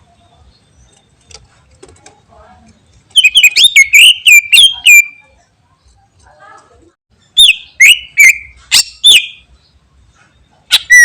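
Greater green leafbird (cucak ijo) singing in loud bursts of sharp, rapid whistled notes that bend up and down. Two bursts of about two seconds each are separated by pauses, and a third begins near the end.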